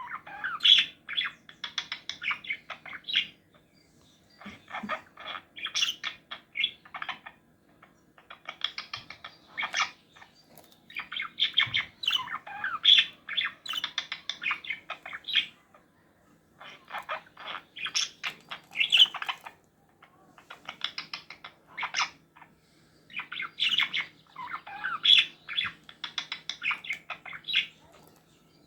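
Pet parrot chattering and chirping in rapid bouts of a few seconds each, with short pauses between them.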